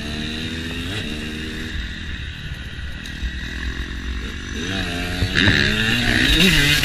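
KTM motocross dirt bike engine under riding load, its pitch climbing and dropping as the throttle is worked. It eases off between about two and four seconds in, then opens up louder from about five seconds in.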